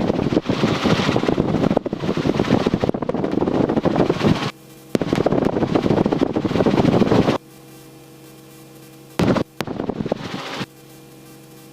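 Helicopter rotor and engine noise: a rapid beating over a steady engine drone. The loud beating cuts in and out abruptly several times, dropping back each time to the quieter steady drone alone.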